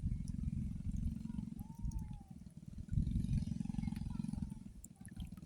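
Low, gusting rumble of wind buffeting the microphone. About two seconds in, a faint tone rises and falls once.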